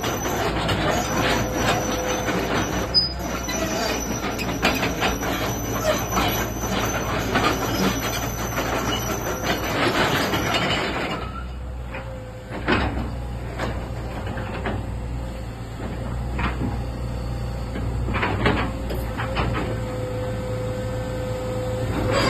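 Hitachi ZX120 excavator's Isuzu four-cylinder diesel running steadily with a thin whine, under frequent metallic clanks and rattles. The clanks are dense through roughly the first half and more scattered later.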